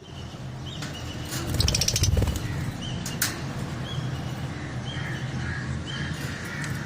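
Caged lovebirds giving short, repeated chirps, with a brief flurry of rapid wing-flapping about a second and a half in.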